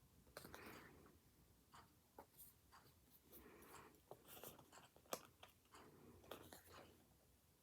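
Pen writing on paper in a planner notebook: faint, short scratching strokes, with a few small sharp taps in between.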